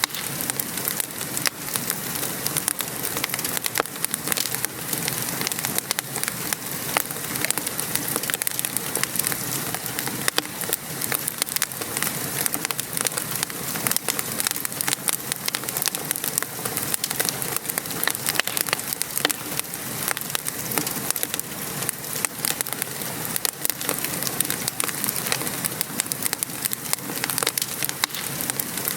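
Steady rain falling outside, mixed with a wood fire crackling in a fireplace, with many small pops and snaps.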